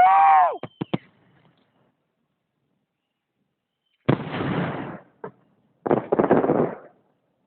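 Festive fireworks salute: two sudden bursts with crackling, about four seconds in and again about two seconds later. At the very start a short rising-and-falling whoop cuts off.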